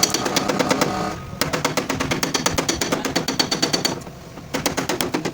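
Rapid mechanical hammering on metal, about ten strikes a second, in three bursts broken by short pauses, typical of a power hammering tool working a car's body panel.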